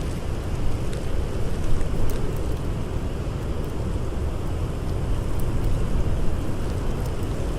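Blizzard wind blowing steadily with a deep rumble, with a few faint sharp crackles from a campfire.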